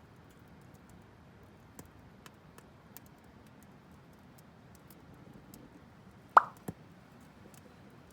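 Burning firewood crackling with scattered faint clicks, then one sharp, loud pop about six seconds in and a smaller one just after.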